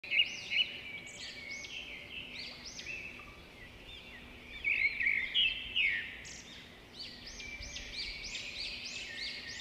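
Small birds chirping: a continuous run of short, high, arching chirps, several a second, louder for a stretch around five seconds in.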